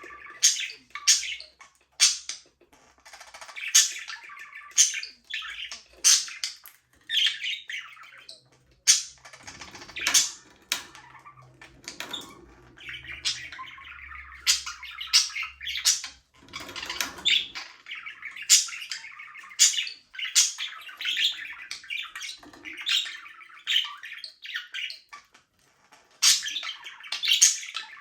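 A group of budgerigars chirping and chattering continuously, with sharp, irregular calls overlapping one another.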